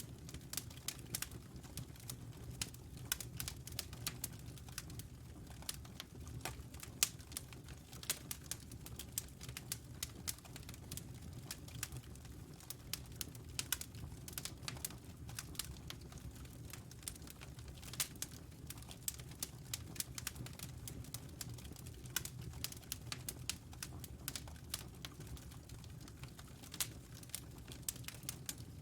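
Wood fire burning in a fireplace, crackling with irregular sharp pops and snaps, several a second, over a steady low rumble of the flames.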